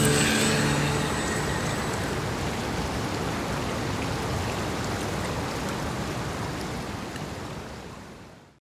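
Steady hiss of water with no tone in it, fading out to silence near the end. Music stops about a second in.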